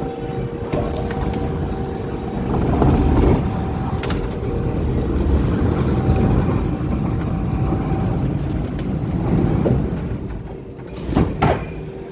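A vehicle engine running with a low rumble that swells and eases, under a steady hum. A few sharp knocks come near the end.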